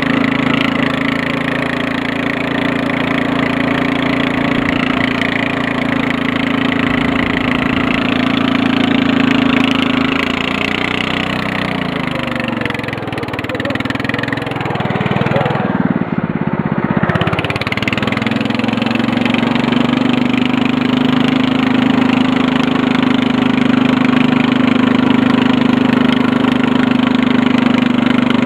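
Murray riding mower engine running steadily while the mower is driven through snow; about a third of the way in its pitch drops and climbs back a few times as the revs change, then it settles back to a steady speed.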